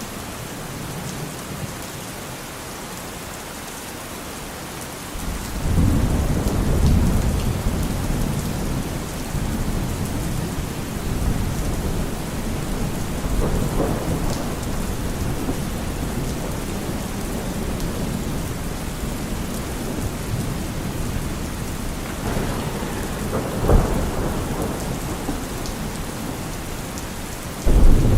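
Steady heavy rain with thunder: a low rolling rumble sets in about five seconds in and carries on for well over ten seconds, a sharper crack comes a few seconds before the end, and a loud new rumble breaks out right at the end. Occasional faint crackles of a wood fire sit under the rain.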